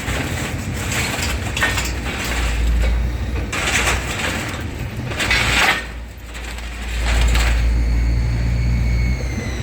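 Scrap metal scraping and crunching in several rough bursts over a low engine rumble, as a load of scrap is moved or dumped.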